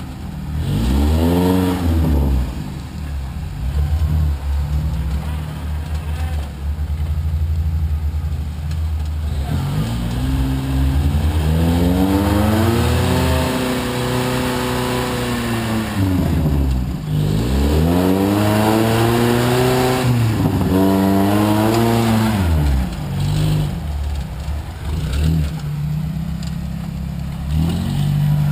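Vehicle engine idling and revving up and down in repeated bursts: a short rev about a second in, a long rise and fall near the middle, then two more revs close together.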